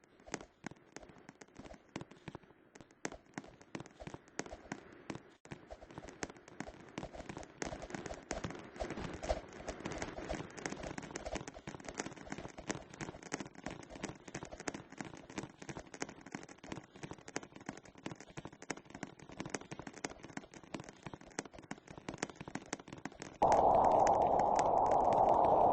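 Dense, irregular crackling and clicking that grows busier after the first few seconds, then a loud steady rushing noise that starts suddenly near the end.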